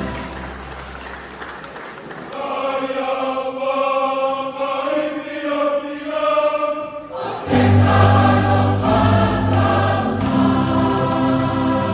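Church choir singing a hymn in harmony, softer at first, then fuller and louder with deep bass notes coming in about seven seconds in.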